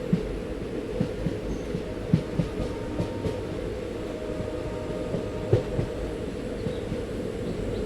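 Moving passenger train: a steady low rumble with irregular clacks and knocks from the wheels on the track.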